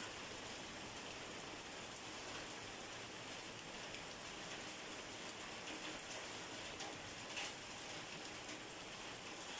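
Steady rain falling on a surface, an even hiss with scattered louder drop hits now and then.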